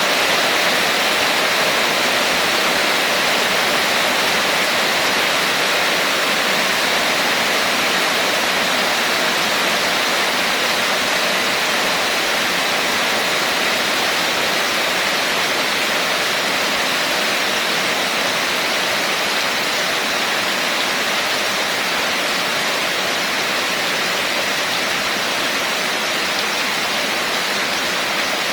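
Rain falling steadily: an even, unbroken hiss at a constant level.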